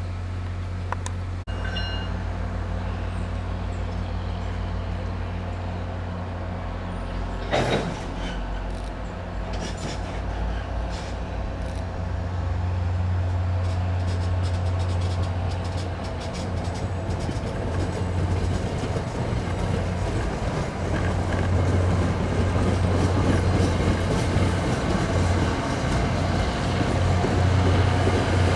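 A train running, with a steady low rumble that grows louder toward the end. A sharp clank comes about seven and a half seconds in, followed by scattered lighter clicks.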